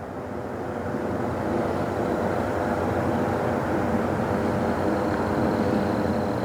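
Aircraft engines droning, growing louder over the first couple of seconds and then holding steady, as a plane draws near.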